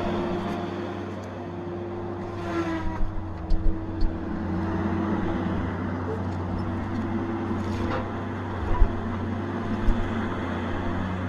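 Tigercat 870C feller buncher's diesel engine running steadily under working load, with a short rising whine about two and a half seconds in and a few sharp knocks from the machine at work.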